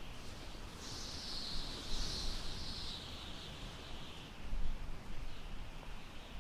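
Wind blowing through tall grass, with a swell of high rustling from about a second in until about four seconds in, over a low wind rumble.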